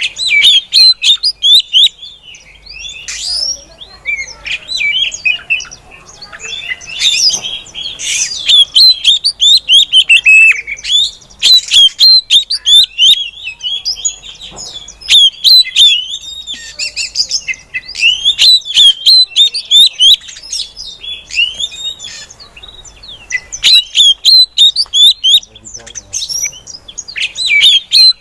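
Female oriental magpie-robin (kacer) calling: rapid runs of short, high, quickly falling chirps, coming in bursts of a few seconds with brief lulls between.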